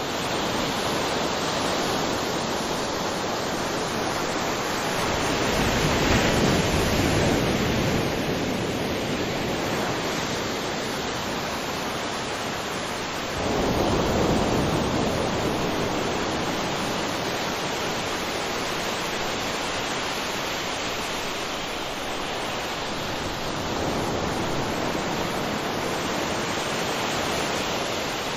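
Waterfall: water rushing in a continuous steady noise, swelling louder about six seconds in and again with a sudden surge about thirteen seconds in.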